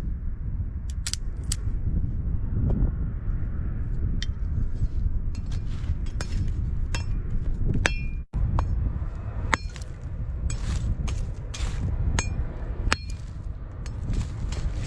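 Repeated light metallic clinks and clatters of camp cookware and stove parts being handled, some ringing briefly, over a steady low rumble.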